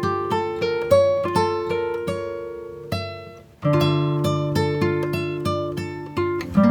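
Background music of acoustic guitar picking single notes that ring and fade, dropping away briefly about three and a half seconds in before a new phrase begins.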